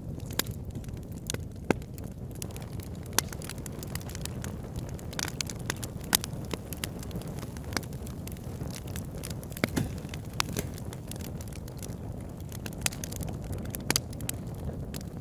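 Wood fire in a fireplace burning: a steady low rumble of flames under frequent irregular crackles and sharp pops.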